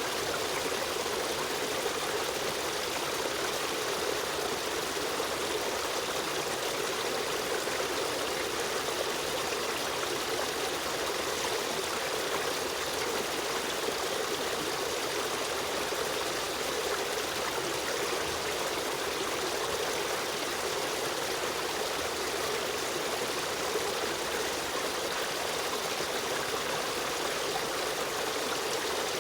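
Running river stream: a steady, even rush of flowing water with a trickling edge, unchanging throughout.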